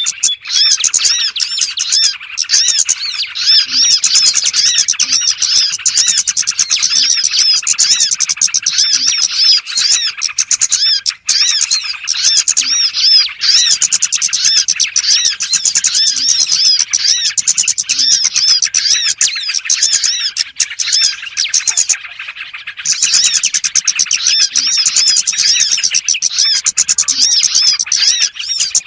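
Dense, unbroken high chirping and twittering of many small birds, a bird-catcher's lure call for small birds, with rapid repeated notes. It briefly thins out about three quarters of the way through.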